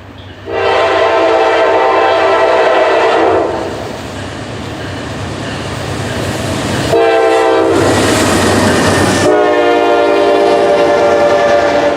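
Freight locomotive air horn sounding two long blasts about three and a half seconds apart, the second changing pitch partway through, over the low rumble of the passing train.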